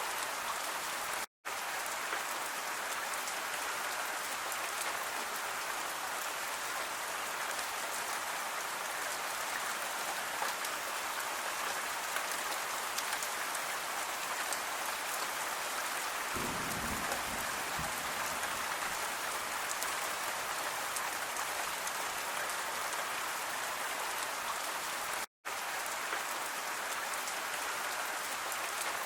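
Steady rain falling, an even hiss with fine patter. It cuts out to silence for an instant twice, once about a second in and again near the end. A brief low rumble comes about halfway through.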